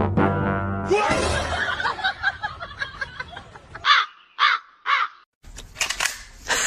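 Three short, harsh animal calls about half a second apart, after a few seconds of mixed clip sound.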